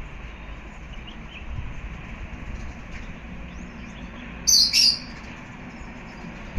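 Small birds chirping over a steady low background hiss, with one loud, sharp two-part chirp about four and a half seconds in.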